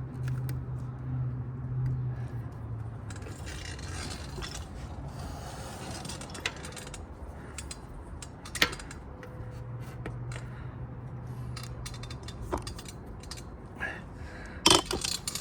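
Hands and a screwdriver scraping and prying a thick rubber intake boot onto a motorcycle carburetor, with scattered sharp metal clicks and knocks, over a low steady hum.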